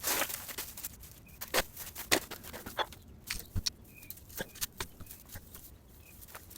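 Garden rake scraping and clattering through dry debris and litter, a quick irregular run of scrapes and clicks, with a few faint short high chirps in the background.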